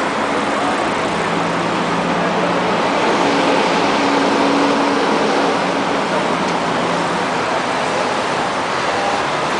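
Steady city road traffic: a continuous rush of passing cars, with faint engine hums coming and going.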